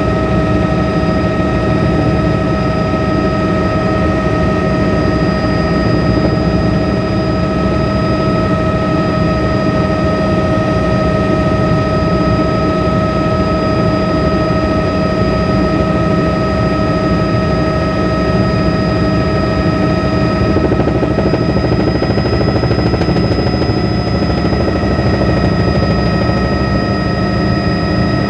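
Helicopter running steadily: a dense low rotor rumble under a high turbine whine made of several steady tones. The whine shifts slightly in pitch about three quarters of the way through.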